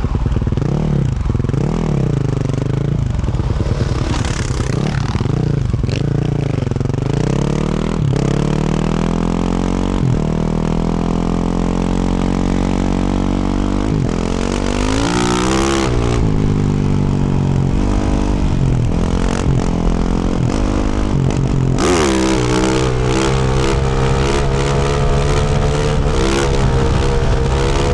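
2024 Yamaha YZ450F's single-cylinder four-stroke engine with a Yoshimura RS-12 exhaust, ridden off-road with the throttle rising and falling. It blips repeatedly at first, then climbs in pitch for several seconds. About three quarters of the way through, a rough hiss with rapid clatter joins the engine.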